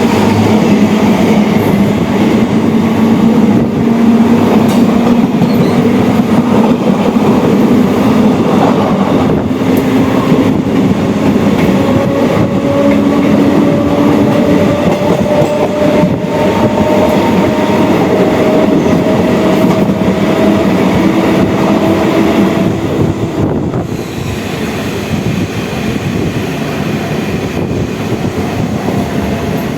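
MEMU electric multiple-unit train running at speed, heard from on board: a loud, continuous rumble and rattle of wheels on track, with a whine that slowly rises in pitch through the middle. It gets somewhat quieter near the end.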